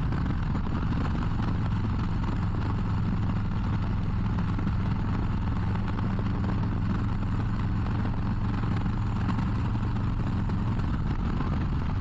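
Harley-Davidson Low Rider ST's Milwaukee-Eight 117 V-twin running steadily under way, its note stepping a little lower just after the start, over a steady rush of wind and road noise.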